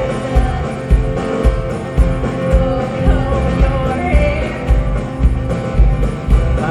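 Live rock band playing loudly: a steady kick-drum beat about twice a second under electric guitar and bass, with a singing or lead-guitar melody over it.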